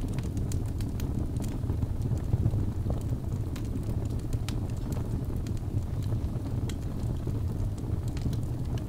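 Birch logs burning in a fireplace: a low, steady rumble of flame with sharp, irregular crackles and small pops scattered throughout.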